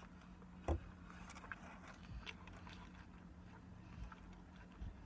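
Quiet mouth sounds of chewing a mouthful of sub sandwich with lips closed: faint clicks and smacks, a low thump about a second in and softer ones near the end. A faint steady low hum runs underneath.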